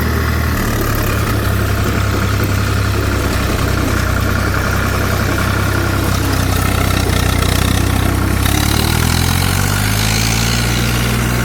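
Zetor 4911 tractor's diesel engine running steadily at low revs, its note shifting slightly about nine seconds in.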